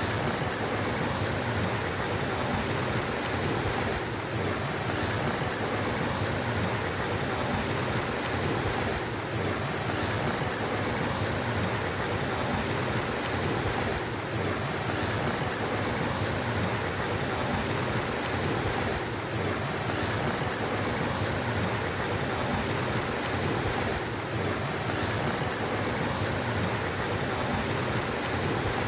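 Steady rushing of flowing water, a stream running continuously, with a faint brief dip roughly every five seconds.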